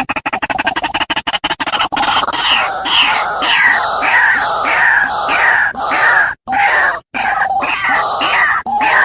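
White-breasted waterhen (ruak-ruak) calling: a fast run of short pulses for about two seconds, then loud, repeated croaking calls about two a second, with a few brief breaks. It is a recorded lure call used to draw the birds in.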